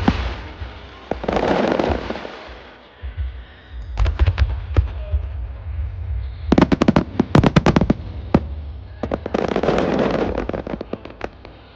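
Aerial fireworks going off: volleys of sharp, rapid bangs about four seconds in and again from about six and a half to eight and a half seconds, over deep booming, with noisy rushing stretches between the volleys.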